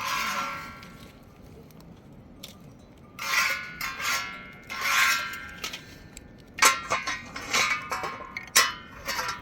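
Metal objects clinking and clanging, with a ringing decay after a strike at the start, a few more ringing clangs a few seconds in, then a quicker run of sharp clinks near the end.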